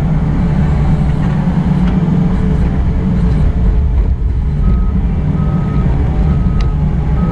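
Excavator's diesel engine running steadily, heard from inside the cab. About two-thirds of the way in, the machine's alarm starts beeping in short even tones, four beeps under a second apart.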